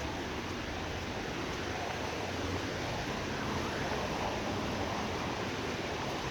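Car tyres hissing through water on a rain-soaked road, a steady wash of noise that swells a little around the middle as a car goes by.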